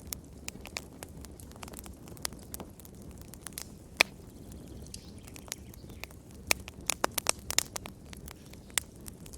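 Wood fire crackling, with irregular sharp pops and snaps over a low steady rumble of flames; one loud pop about four seconds in and a quick run of pops a few seconds later.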